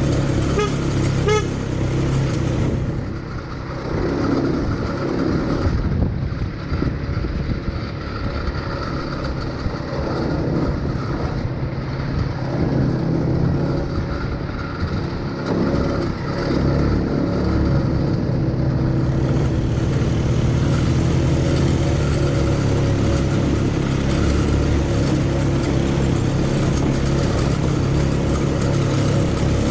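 ATV engine running throughout a ride, its pitch and loudness easing off and picking up a few times early on, then holding steady.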